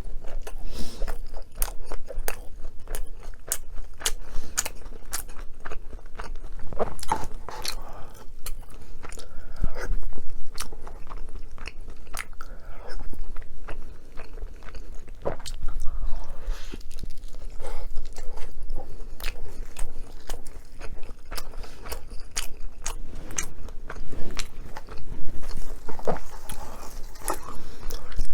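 Close-miked chewing and biting of food, with many crisp crunches and wet clicks all through.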